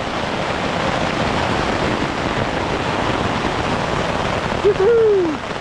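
Heavy rain beating steadily on a tent's flysheet, heard from inside the tent. Near the end a brief falling vocal sound cuts in.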